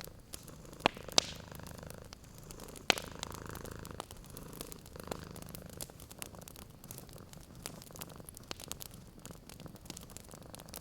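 A cat purring steadily, with a crackling wood fire throwing sharp pops, the loudest three within the first three seconds.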